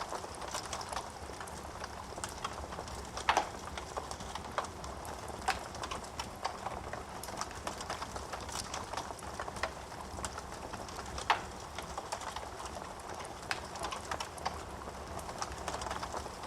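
Wood fire crackling in a fireplace: a steady low rush of burning with frequent small sharp pops and snaps, two louder pops about three seconds and eleven seconds in.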